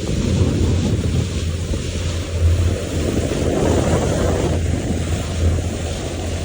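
Boat engine running with a steady low hum, under heavy wind buffeting the microphone and the rush of water.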